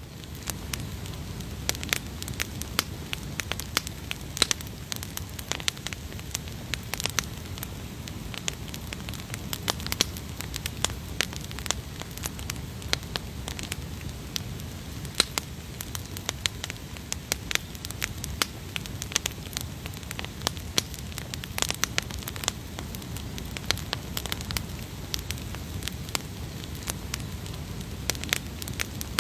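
Wood fire burning in a WAQ fire stand, crackling with frequent irregular sharp snaps and pops over a steady low rumble.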